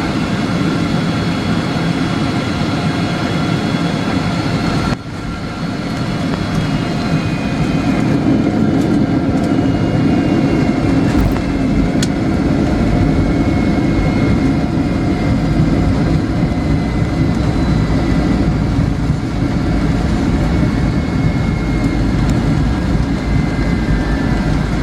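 Cabin noise of a Boeing 757-300 with Pratt & Whitney PW2040 engines during landing: a steady engine and airflow rumble with a thin engine whine over it. About five seconds in, the sound drops suddenly. A heavier low rumble then builds and holds.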